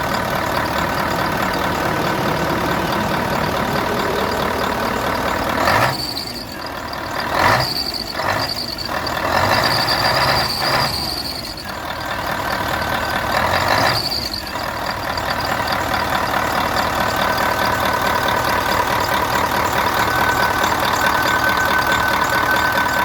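Setra S 417 HDH coach's diesel engine idling steadily after a cold start. About a quarter of the way in, a series of short air hisses from the coach's compressed-air system comes over it.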